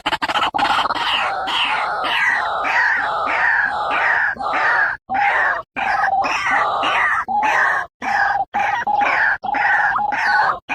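White-breasted waterhen calling over and over, each call falling in pitch, about two a second, broken by several sudden short gaps where the looped recording is spliced.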